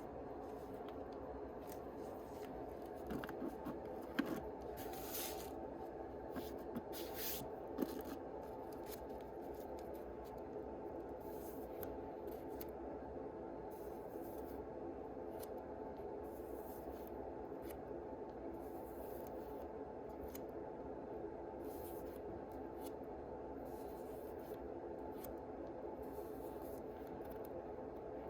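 Yu-Gi-Oh cards and booster-pack wrappers being handled: short rubbing and sliding strokes of card stock and foil, busiest between about three and eight seconds in, over a steady low hum.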